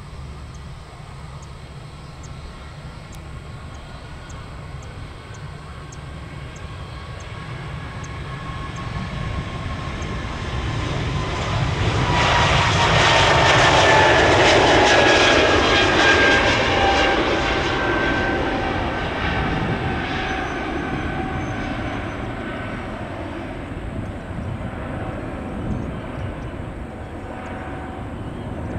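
Jet airliner passing close by. Its engine noise swells to a peak about midway and then fades, while the engine whine falls steadily in pitch as it goes past.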